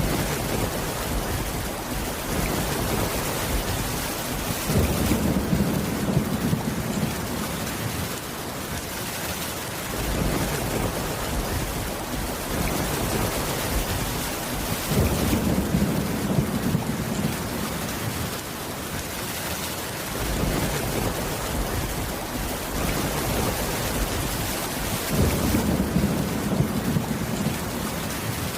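Steady rain with low rumbles of thunder that swell about every ten seconds.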